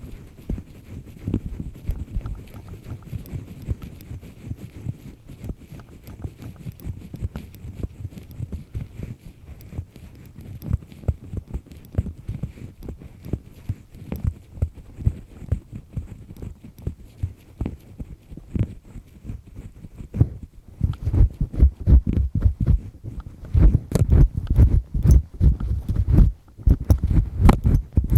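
Double-disc ear pick scraping and rubbing firmly inside an ear canal close to the microphone: a steady stream of quick, dull scratching strokes that grows louder and more frequent in the last quarter.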